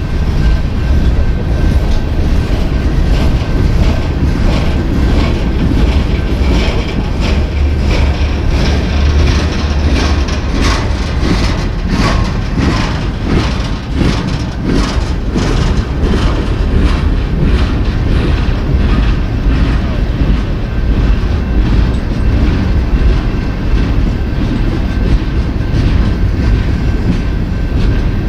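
Freight train cars rolling past with a steady heavy rumble and wheels clicking over rail joints, the clicks densest in the middle. A thin steady high tone runs under it.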